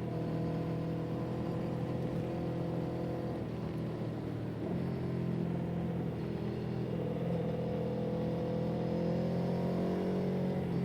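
A motor vehicle's engine running steadily under way. Its pitch breaks and drops about four seconds in, then climbs slowly as it picks up speed.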